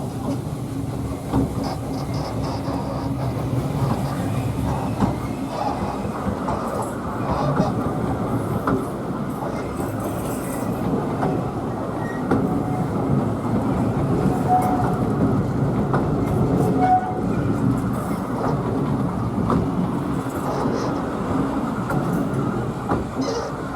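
Narrow-gauge railway train running along the line: a steady rumble of carriage wheels on the track, with scattered clicks as they pass over the rails.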